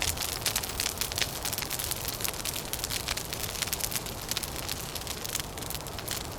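Crackling wood fire: a dense, irregular run of small pops and snaps over a steady low rumble of wind.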